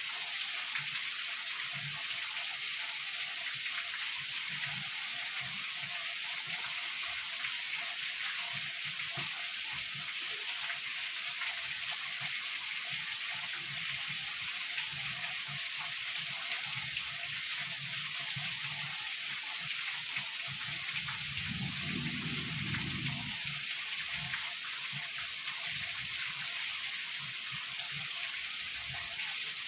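Heavy rain falling in a steady, even hiss. A brief low rumble rises under it about three quarters of the way through.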